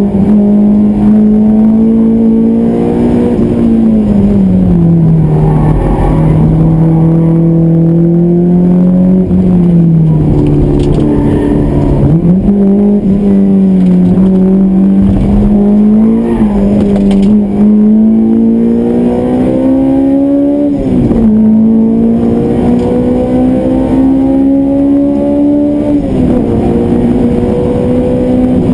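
Honda S2000's four-cylinder VTEC engine, fitted with an aftermarket Skat and N1 exhaust and an aftermarket intake, heard from inside the cabin at high revs on track. Its pitch climbs under full throttle and falls off sharply several times for braking and gear changes.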